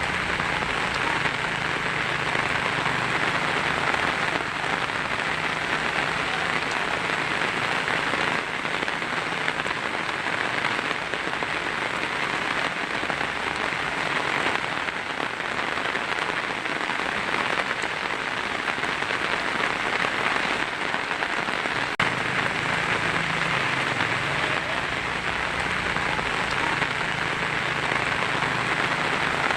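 Heavy rain drumming steadily on a tin roof, a dense even hiss of drops.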